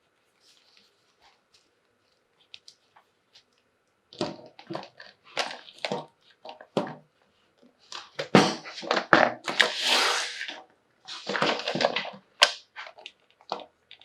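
Toy packaging being handled: a few faint taps, then about four seconds in, irregular rustling and crinkling that grows louder and busier near the middle.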